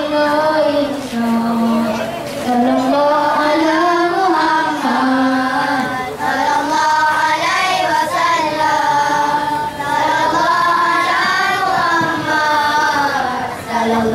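Young boys singing a melody together into handheld microphones, with long held notes that bend in pitch.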